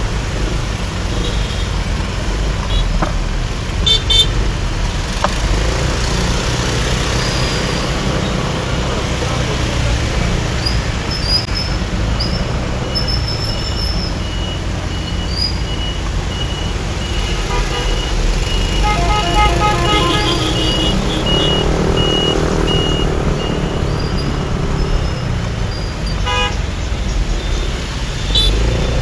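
Busy city traffic heard from a moving motorbike: a steady engine and road rumble, with vehicle horns tooting now and then. A little past halfway, one horn gives a run of short, rapid beeps.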